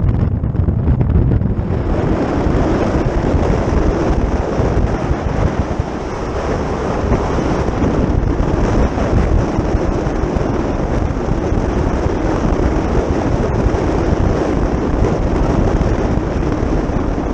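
Steady wind noise buffeting the microphone, with a continuous low rumble underneath.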